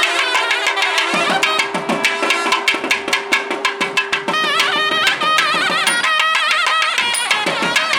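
South Indian temple music: a nadaswaram-style reed melody with bending, ornamented notes over rapid thavil-style drum strokes. A steady drone note holds under them and stops about five seconds in.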